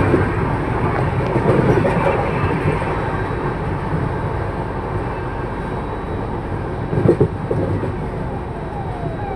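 Passenger train coach running slowly over the track, the steady rumble and rattle of its wheels and body heard from inside, with a brief louder burst about seven seconds in.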